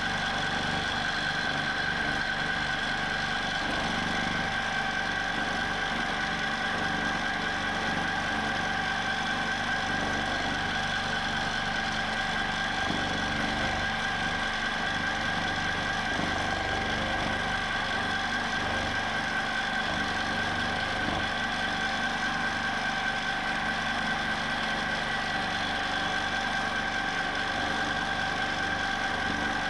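Q'nique 19 longarm quilting machine running at a constant speed in manual mode, stitching steadily with a high, even motor whine.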